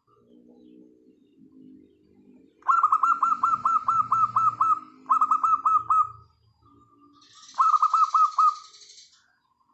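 Zebra doves (perkutut) singing: soft low cooing, then three loud bursts of rapid staccato call notes, several a second, about three seconds, five seconds and near eight seconds in.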